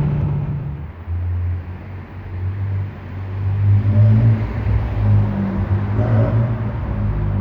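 BMW 630i's naturally aspirated inline-six through an exhaust with gutted middle and rear mufflers. The high engine note falls away about a second in, then settles into a low, steady drone that grows slightly louder.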